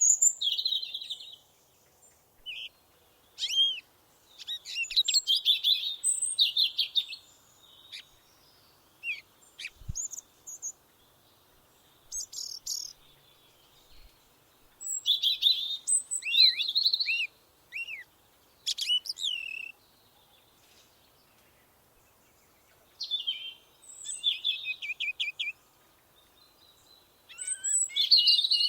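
Songbirds singing: short, varied phrases of chirps, trills and down-slurred whistles, coming in bursts a few seconds apart with quiet gaps between.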